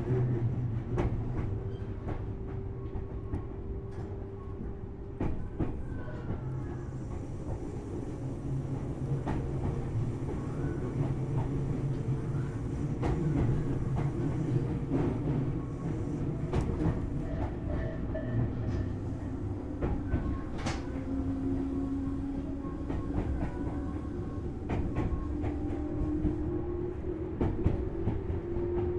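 Tobu Series 6050 electric train running between stations, heard from aboard its motor car: a steady low rumble with frequent wheel clicks over the rail joints. A humming tone from the train rises in pitch over the last several seconds.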